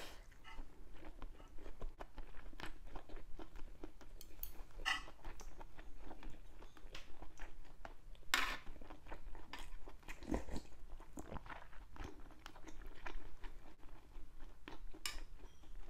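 Close-up chewing of spicy fish-roe stew: wet mouth sounds with many small clicks and soft crunching, the roe and milt being soft yet crunchy.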